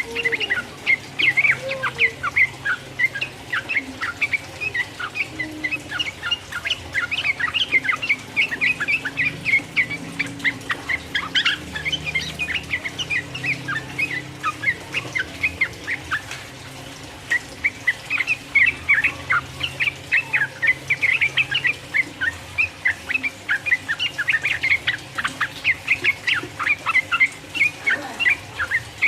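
Yellow-vented bulbul (trucukan) singing a long, rapid run of chattering notes, broken by a short pause about halfway through.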